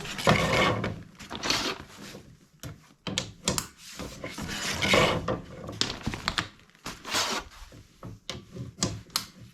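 Repeated rubbing and scraping strokes, each lasting about half a second to a second and a half, with scattered knocks and clicks between them, as the chimney sweeping gear is handled.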